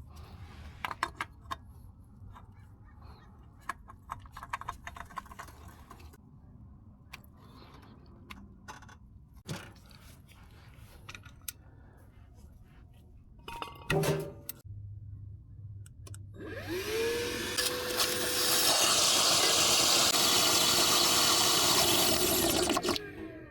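Light clicks and clatter of tools and parts being handled, then an electric motor spins up with a loud rushing whir, runs steadily for about six seconds and winds down near the end.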